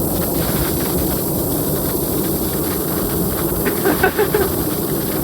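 Waterfall rushing in a steady, loud hiss of falling water, with a short human vocal sound about four seconds in.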